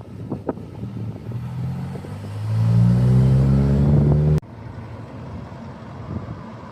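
A car engine accelerating hard, its note rising steadily in pitch for about three seconds and getting loud, then cutting off suddenly.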